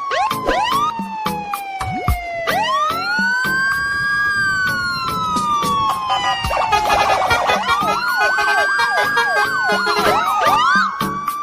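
Siren-like wailing tones, each rising quickly and then falling slowly over about three seconds, over a steady beat and short chirping glides.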